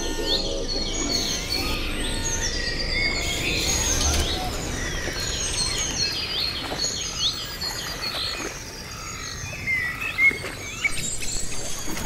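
Birds chirping and singing: many short, high calls and quick swooping notes overlapping.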